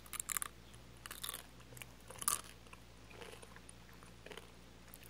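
Mouth sounds of biting into and chewing an orange gummy candy with a crispy outer shell: short crunches about once a second, the loudest about two seconds in.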